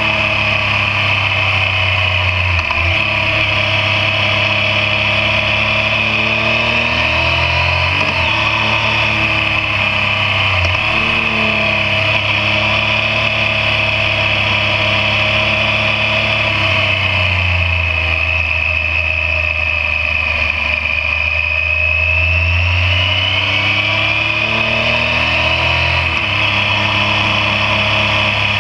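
Yamaha MT-09's three-cylinder engine running under way, its pitch rising and falling as the throttle is worked, with several sudden changes in pitch that sound like gear changes.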